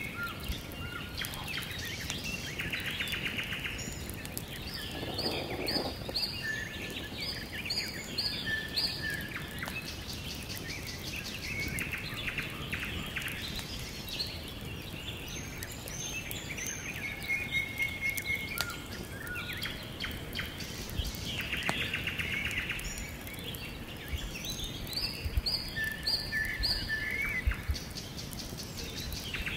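Several songbirds singing in woodland, with short whistled notes, trills and high chirps that recur in similar phrases every several seconds, over a steady background hiss.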